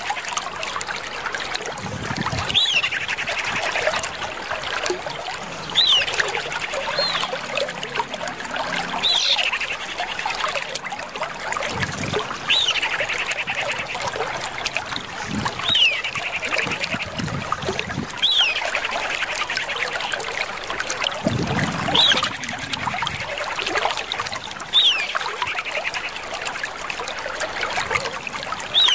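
Common iora (Aegithina tiphia) calling over and over, about once every three seconds: each call is a sharp, high note that flicks up and drops, followed by a buzzy trill. Behind the calls is a steady background of trickling water.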